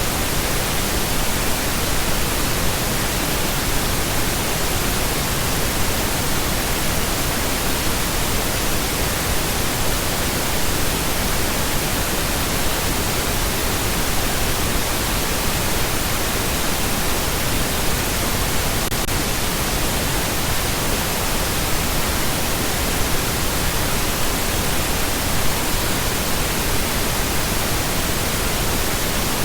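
Steady, continuous pink noise: an even hiss across all pitches, softer and deeper than white noise, with no changes.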